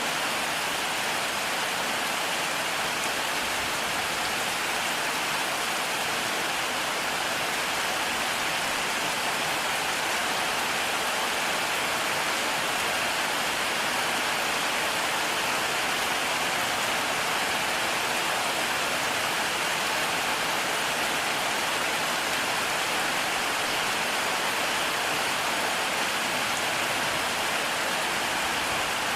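Heavy rain falling steadily, an even dense hiss of drops on surfaces with no change in strength and no thunder.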